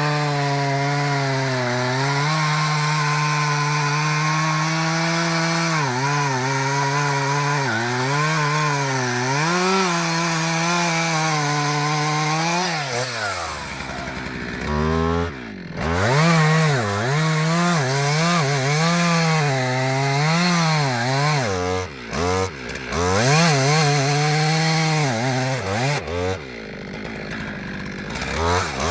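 Two-stroke chainsaw running at high revs, with its engine pitch dipping and recovering as it cuts under load. About halfway through the revs fall away sharply and pick up again, and they drop briefly twice more near the end.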